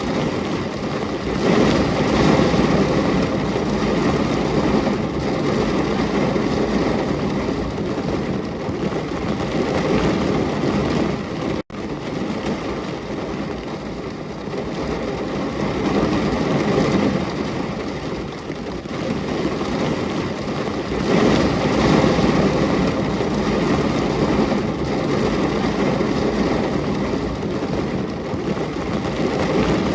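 Steady heavy rain: a dense hiss that swells and eases every few seconds and cuts out for an instant about a third of the way in.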